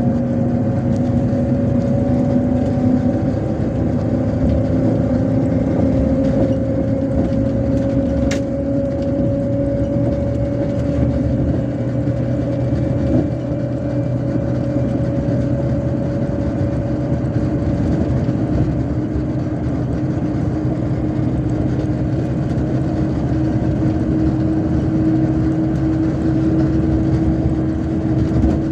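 MAZ-257 bus under way, heard from inside: steady engine and road rumble with a running tone that slowly rises in pitch. A single short click about eight seconds in.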